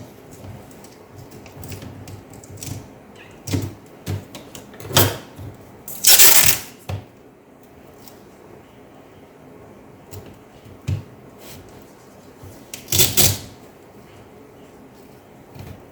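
Clicks, taps and rustling of laptop parts being handled during a keyboard replacement, with two longer, louder rustling scrapes about six and thirteen seconds in.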